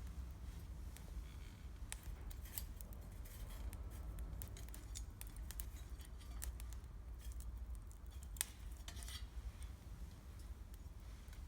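Wood campfire crackling, with irregular sharp pops and snaps over a low steady rumble; one pop about eight seconds in is the loudest.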